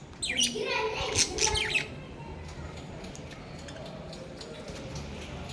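Small pet parrots squawking and chirping, a quick run of short, shrill calls in the first two seconds, then only faint light ticks and taps.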